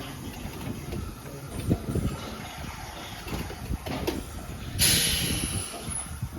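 Steam locomotive at rest, with a low rumble and irregular knocks. About five seconds in comes a sudden loud burst of steam hissing that fades over about a second, while the engine is being cleaned out at the end of the day.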